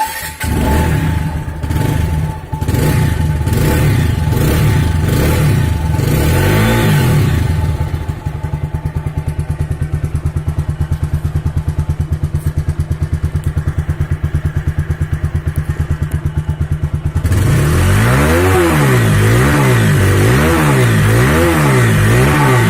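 TVS Apache RTR 160 4V motorcycle's single-cylinder, four-valve engine heard through its stock exhaust. It is blipped a few times, settles into a steady idle, then is revved up and down repeatedly in quick blips, about one a second, over the last several seconds.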